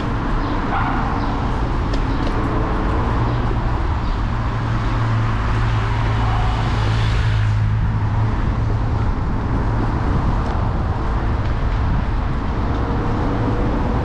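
City street traffic heard from a handlebar-mounted camera on a moving electric scooter: a steady low hum under road noise. A louder rush swells and fades about seven seconds in.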